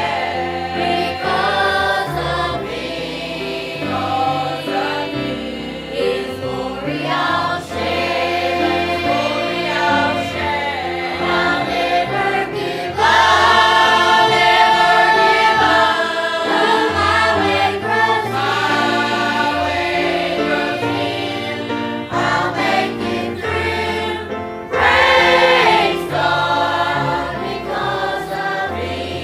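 Congregation or choir singing a hymn with instrumental accompaniment, with louder held notes about halfway through and again near the end.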